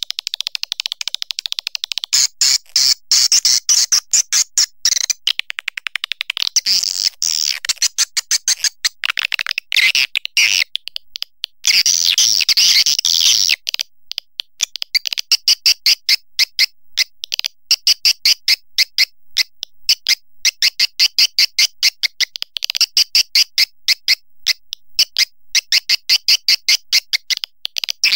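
Recorded swiftlet calls: a fast, continuous train of high-pitched chirps and twitters, many short pulses a second, which becomes a more even rapid pulsing about halfway through.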